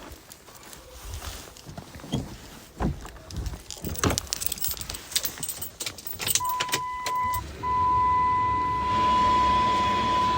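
Keys jangling and clicking, then a steady electronic warning chime sounds from about two-thirds of the way in. A moment later a third-generation Cummins turbodiesel in a Ram pickup starts and settles into a steady low idle.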